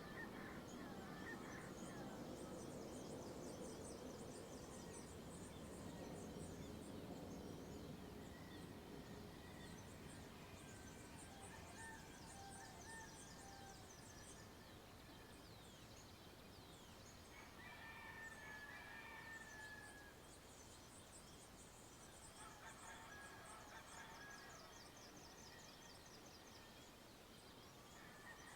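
Faint dawn countryside ambience: birds calling, with fast high trills repeating and several short chirping calls. A low rumble sits under the first few seconds.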